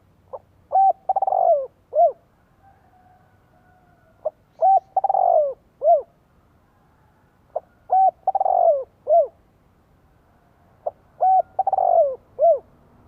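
Spotted dove cooing its territorial song: four phrases about three and a half seconds apart, each a few short coos around a longer one that falls in pitch at its end.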